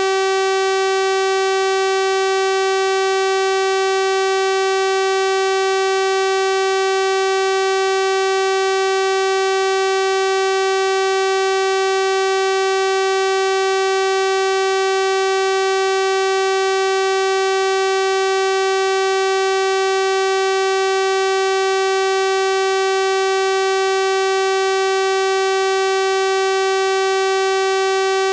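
A synthesized 384 Hz sawtooth-wave tone, held steady and unchanging, with a bright, buzzy stack of overtones.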